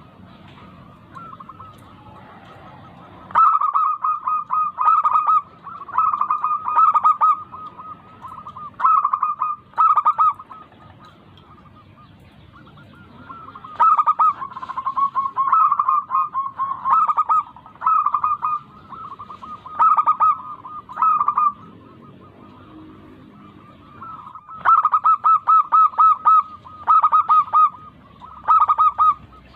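Zebra dove (perkutut) singing: bursts of rapid, rhythmic cooing notes, repeated in phrases a second to several seconds long with short pauses between. It is a bird in full, active song (gacor), the kind of recording used as a lure to set other doves singing.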